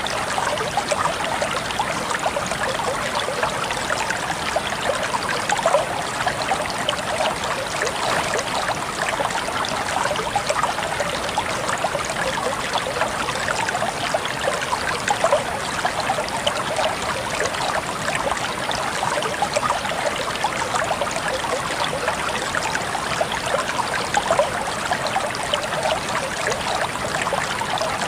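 Clear stream water flowing and babbling over rocks, a steady trickle with no letup.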